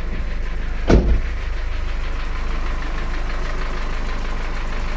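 Car engine idling while only part-warm, with a small knock from the hydraulic lifters still there after an engine flush and oil change; the mechanic reckons one lifter will need replacing. A single loud thump about a second in.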